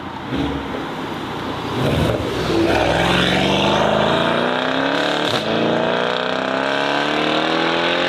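A performance car's engine accelerating hard as the car pulls away. The engine note climbs steadily in pitch over several seconds and gets louder about two seconds in.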